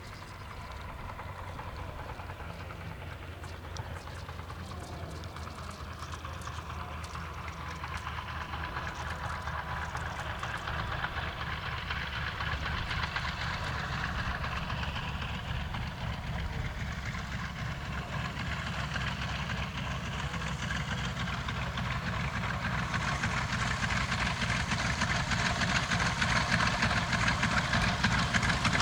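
A North American T-28 Trojan's Wright R-1820 nine-cylinder radial engine running, growing steadily louder as the aircraft approaches.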